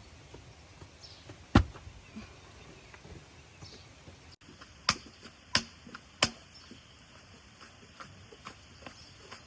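Sharp knocks: one loud knock, then after a pause three evenly spaced knocks about two-thirds of a second apart, with small ticks over faint background.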